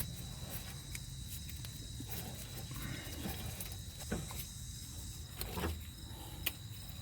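A few faint metallic clicks and taps as the worn outer tie rod end is spun off the inner tie rod's threads by hand, over a steady high-pitched drone.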